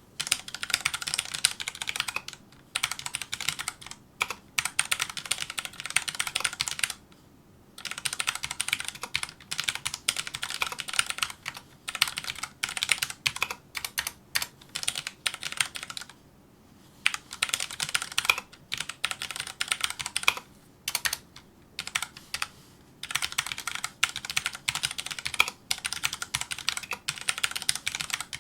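Fast touch typing on a Filco Majestouch2 mechanical keyboard with Cherry MX Brown switches: a dense patter of key clacks in runs of several seconds, broken by a few brief pauses.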